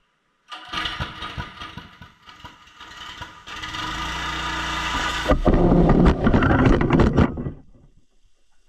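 Gas pressure washer running: its Honda GX390 single-cylinder engine drives a Cat pump while water sprays with a hiss. It starts about half a second in, grows louder past the middle and stops near the end.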